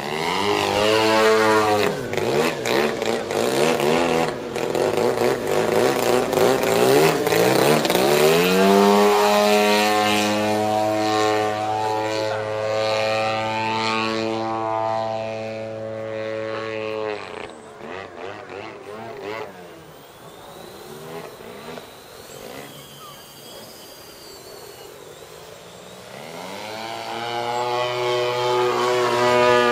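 Large-scale RC aerobatic plane's 120cc petrol engine and propeller in flight, its note sliding down in pitch about a second in as it passes. It holds a steady high-throttle note until about 17 s, then falls away and stays faint until about 26 s, when it grows louder again as the plane comes back.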